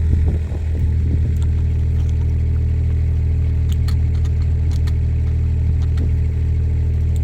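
Kubota mini excavator's diesel engine idling steadily, with a few faint sharp clicks over it.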